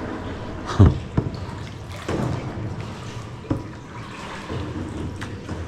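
Kayak paddling in a flooded mine tunnel: water splashing and dripping off the paddle blades, with a few sharp knocks, the loudest about a second in.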